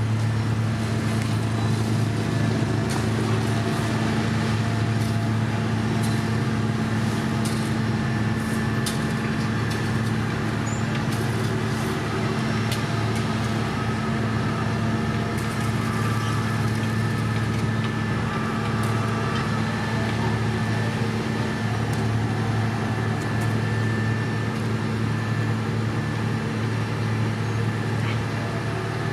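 Heavy road-construction machine's engine running steadily, a constant low drone, with faint scattered ticks over it.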